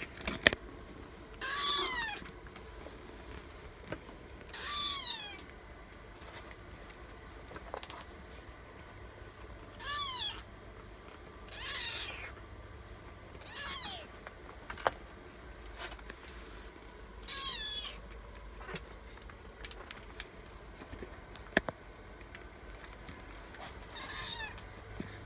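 Young kittens meowing, about seven short high-pitched cries that fall in pitch, spaced a few seconds apart: hungry kittens crying to be fed. A few sharp clicks fall between the cries.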